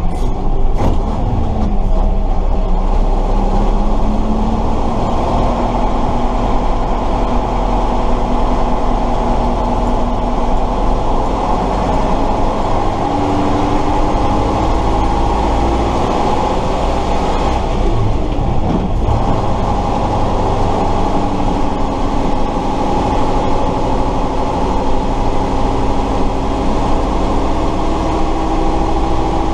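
Tatra 138 fire truck's V8 diesel engine running under way, heard from the cab, its pitch climbing as it pulls through the gears and dropping briefly at a gear change a little past halfway.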